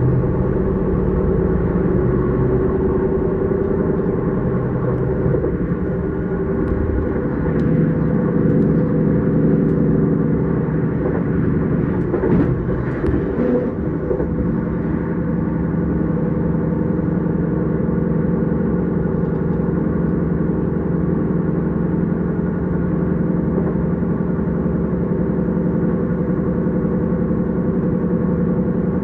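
S-Bahn electric train running: a steady rumble of wheels on track with a constant motor hum, and a short spell of clicks and rattles about halfway through.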